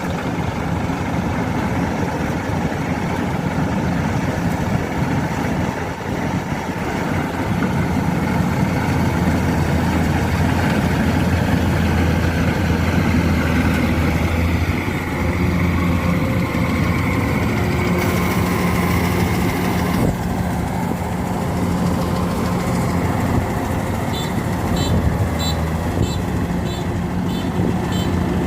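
Kubota DC93 Extra combine harvesters running steadily while cutting rice, a continuous diesel engine drone. A faint rapid ticking joins near the end.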